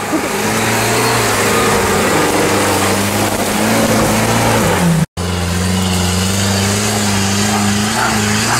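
UAZ-469 off-road vehicle's engine running under steady throttle, a low even drone that climbs slightly in pitch at about four and a half seconds. The sound cuts out for a split second a little after five seconds, then the engine drone carries on steadily.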